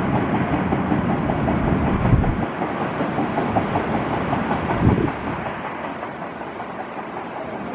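A freight train of tank wagons rolling away over the rails, its wheels clicking, the sound fading over the last few seconds. Two low thumps come about two and five seconds in.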